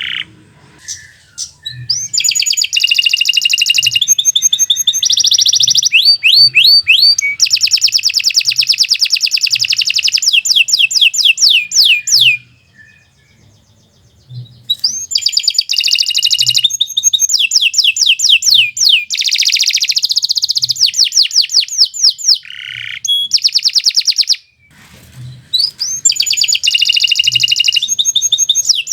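Domestic canary singing long, rapid trilled phrases of quickly repeated notes, one tour after another. The song breaks off for about two seconds near the middle and briefly again a few seconds before the end.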